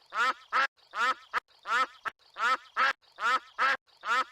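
Cartoon duck quacking over and over in an even, looping rhythm, about two quacks a second.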